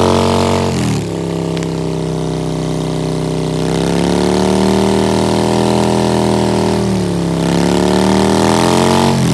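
Harley-Davidson CVO Breakout V-twin running through its exhaust, its engine speed easing up and down. The revs drop about a second in, climb slowly from about four seconds, dip near seven seconds and rise again before the sound cuts off abruptly.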